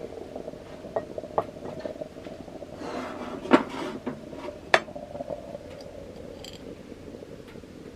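Metal cookware and utensils clinking and scraping against a pot or pan: a few sharp clinks, the loudest about three and a half and nearly five seconds in, with a short scrape between them.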